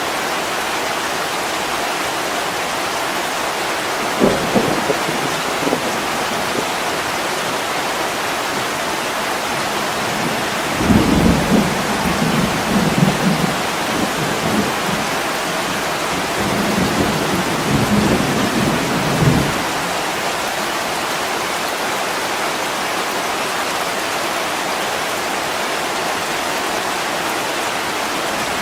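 Heavy rain pouring steadily on a window, with thunder: a brief low rumble about four seconds in, then a longer rolling rumble from about eleven to nineteen seconds in.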